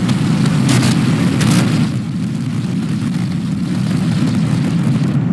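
Starship Super Heavy booster's Raptor rocket engines firing just after liftoff: a loud, steady low rumble with bursts of crackle about a second in and again around a second and a half.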